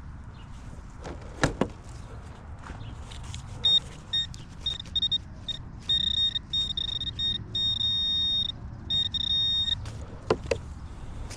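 High electronic tone from a metal detector over a buried coin target: it sounds in short stuttering beeps, then holds steady, then breaks up again. A sharp knock of digging into soil comes early and another near the end.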